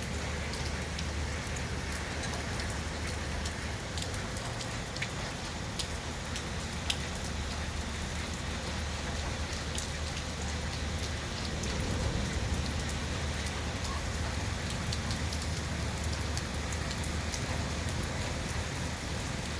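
Heavy rain falling steadily, a dense even hiss of downpour with scattered sharper drop impacts; it swells slightly about twelve seconds in.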